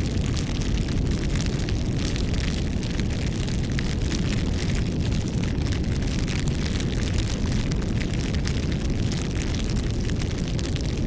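Bonfire burning: a steady low rush of flames with constant small crackles and pops of burning wood.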